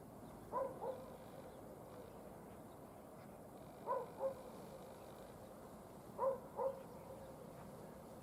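A dog barking in the distance, three times a quick double bark.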